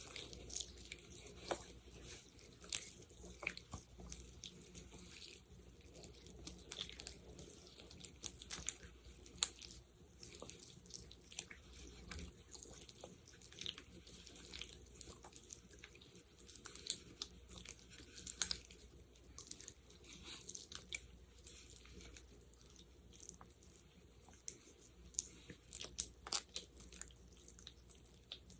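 Sticky, wet crackling and clicking of gel worked close to the microphone, in a rapid, irregular stream of small pops.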